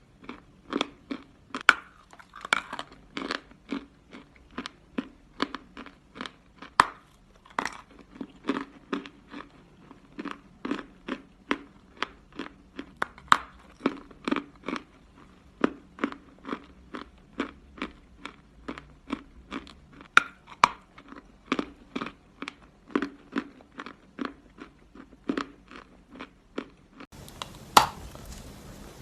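A person chewing a round piece of edible chalk close to the microphone: a steady run of crisp crunches, about two to three a second. Near the end the background hiss rises and a few louder crunches follow.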